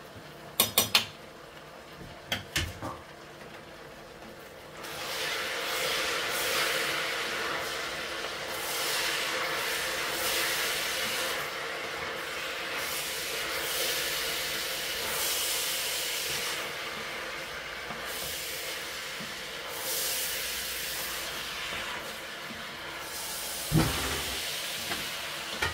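Vegetables frying in oil in a stainless steel pot as they are stirred with a wooden spoon. A loud sizzling hiss starts about five seconds in and swells and fades with the stirring. A few sharp taps come near the start and a knock near the end.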